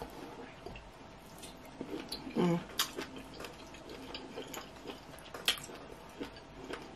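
Close-up chewing of a mouthful of steak and ramen noodles: scattered wet mouth clicks and smacks, with a brief hum of voice about two and a half seconds in.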